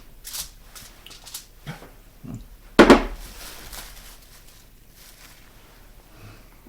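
Kitchen work on a counter: a few light clicks and taps, then one loud knock about three seconds in, like a utensil or dish set down hard, ringing briefly.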